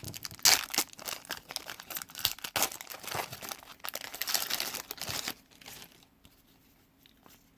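A trading card pack wrapper being torn open and crinkled by hand: a quick run of crackles and rips that stops about five seconds in.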